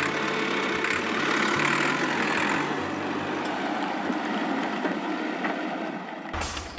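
An engine running steadily. It cuts off near the end.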